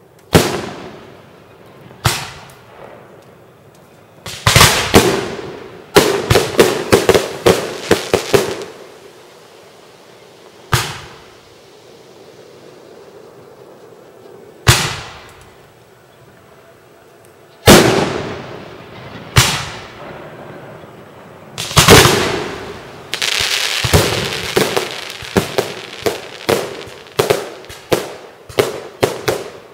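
Aerial fireworks shells bursting with sharp bangs, some singly and some in quick volleys, each trailing off in echo. In the last few seconds a steady crackle runs under a rapid string of bangs.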